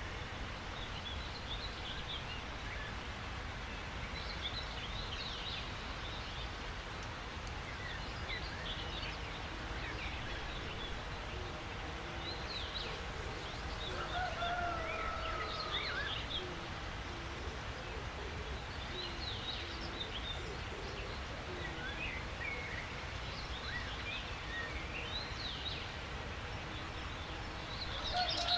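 Mixed birdsong: many short, high chirps and trills from several birds, with a longer, lower, falling call about halfway through and again near the end, over a steady low outdoor rumble.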